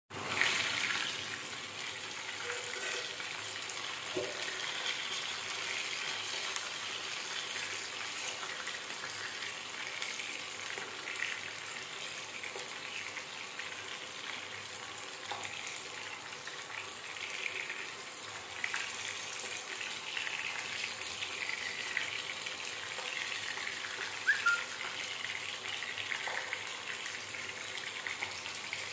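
Chicken pakoda frying in hot oil on a low flame: a steady sizzle with scattered small crackles, and a brief sharper pop about 24 seconds in.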